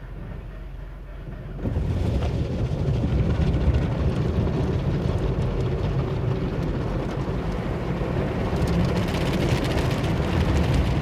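Car wash machinery starting up about two seconds in, over a low steady hum: a loud, steady rush of water spray and running machinery, getting hissier near the end.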